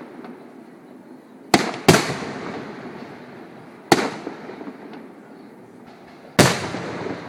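Fireworks display: four sharp shell bursts, two close together about a second and a half in, one near four seconds and one near the end, each bang echoing away, over a continuous background crackle and rumble.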